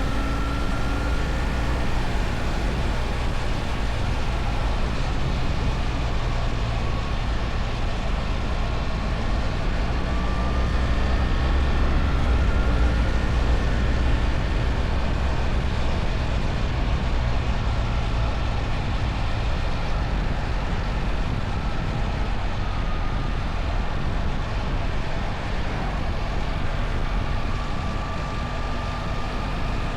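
BMW R1300 GS boxer-twin engine running while the motorcycle is ridden, under a steady rush of wind and road noise. A faint whine rises and falls in pitch a few times, and the sound swells a little about twelve seconds in.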